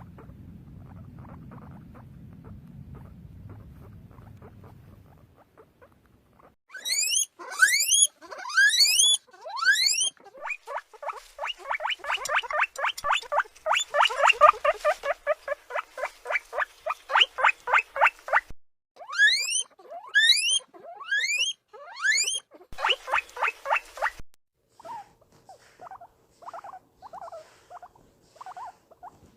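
Guinea pigs wheeking: loud rising whistled squeals, then a fast run of short rising squeaks at about four a second, more rising squeals, and softer short squeaks near the end. The first five seconds hold only a low rumble with faint rustling.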